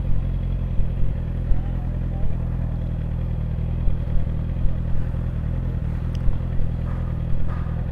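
Suzuki GSX-R 750 motorcycle's inline-four engine idling steadily.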